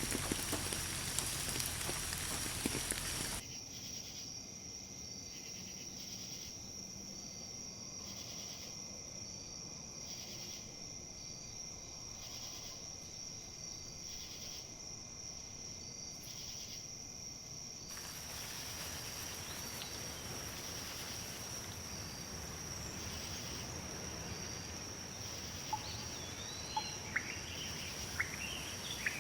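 Outdoor nature ambience: a hiss of rain and wind for the first few seconds that cuts off abruptly, leaving a steady high insect drone. From about halfway the wind hiss in the leaves comes back up, and birds chirp a few times near the end.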